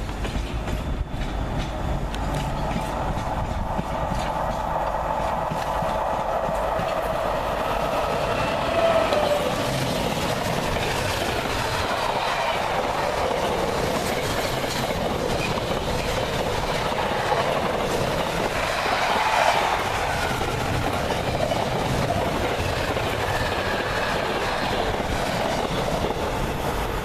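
A train running through the station for the whole stretch: a steady rail rumble with wheels clicking over the rail joints, and a wavering high whine that rises and falls twice.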